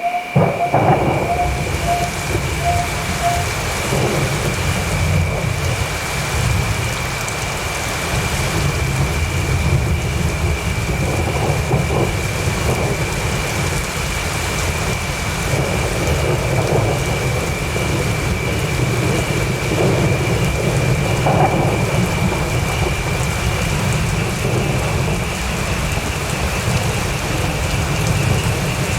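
Steady rain falling with a continuous low rumble of thunder. A thin steady high tone runs underneath.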